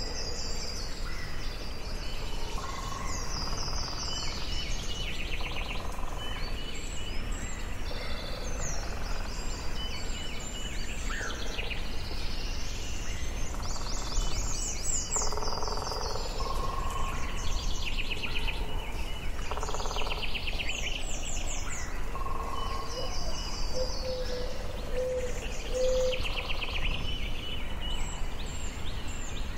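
Forest bird chorus: many birds singing and calling at once, with quick high trills and chirps overlapping and a few lower repeated notes, over a steady low background rumble.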